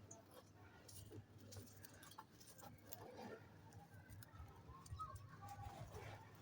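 Near silence, with faint scattered clicks and a few soft, short chirps from a pet parrot.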